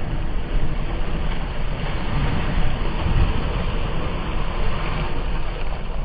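Steady rushing noise of a ship under way at sea: water streaming past the bow and hull, with a low rumble that runs unbroken.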